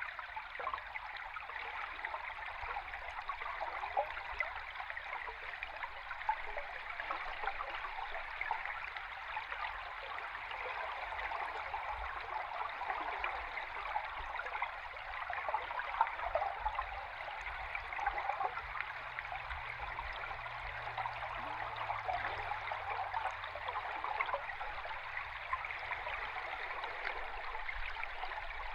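River stream heard underwater: steady rushing water dense with small bubbling and gurgling sounds over a low rumble.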